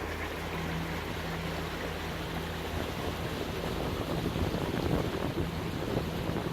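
Lagoon 42 catamaran's diesel engines droning steadily under way, over the rush of water along the hulls. Wind buffets the microphone, growing gustier in the second half.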